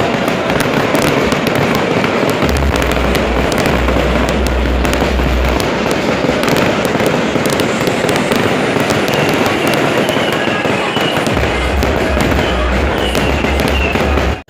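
Fireworks going off: dense, continuous crackling and popping, with a deep low rumble that comes and goes.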